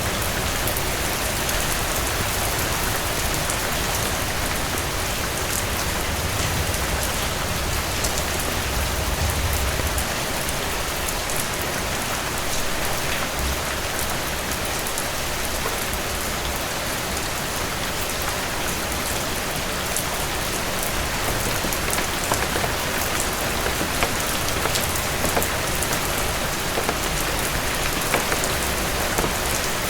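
Heavy rain falling steadily on a surface, an even rushing hiss with many scattered sharp ticks of drops.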